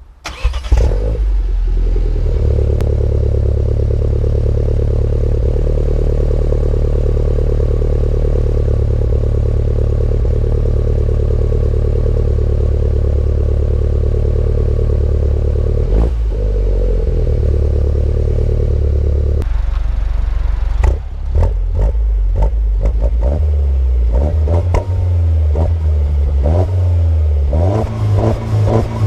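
Peugeot 208 GTi by Peugeot Sport's 1.6-litre turbocharged four-cylinder starting from cold through an Inoxcar stainless rear silencer, the stock mid-pipe having no flame arrestor. It catches with a loud flare and settles into a steady high cold idle. From about two-thirds of the way through come a series of short throttle blips, roughly one a second, each revving up and dropping back.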